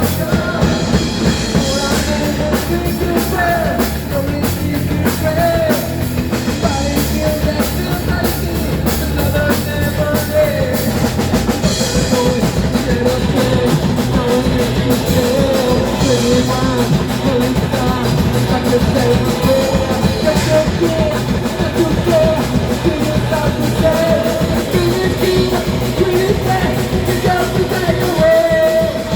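Rock music played by a band: a drum kit keeping a steady beat under guitar, with a wavering lead melody on top.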